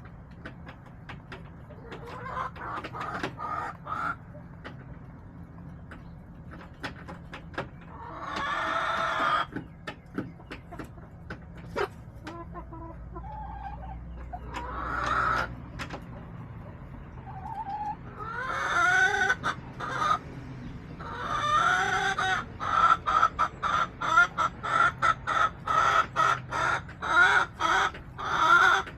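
Backyard hens clucking, with a few longer drawn-out calls, building in the last several seconds into a fast run of repeated clucks, about three a second. Short sharp ticks scatter throughout.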